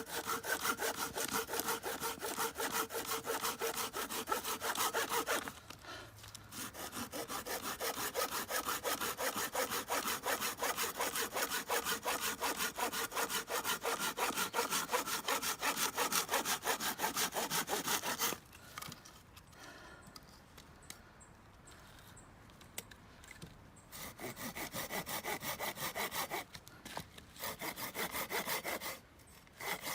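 Hand saw cutting wood in quick, steady back-and-forth strokes. The sawing stops briefly about six seconds in, pauses for several seconds in the second half, and breaks off once more near the end.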